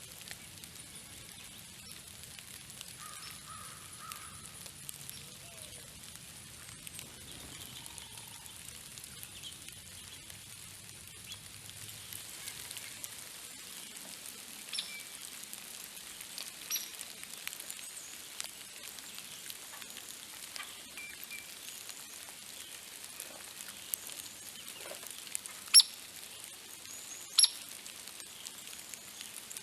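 A few sharp, very short bird calls, scattered and spaced seconds apart, the two loudest close together near the end, over a steady outdoor hiss.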